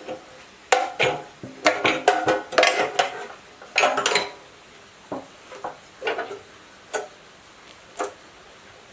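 Irregular clinks and knocks of hard objects being handled, a quick cluster in the first half and scattered single knocks after, some ringing briefly.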